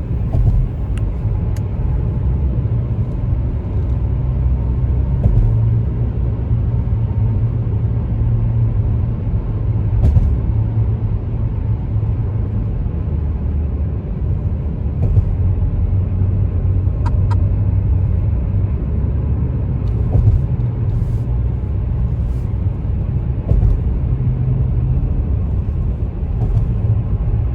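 Steady low rumble of a car on the move, with a few faint clicks here and there.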